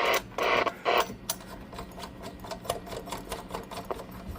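Controls on a CB radio test bench being worked: a rapid, irregular run of sharp clicks. Three short bursts of hiss come in the first second, over a faint steady hum.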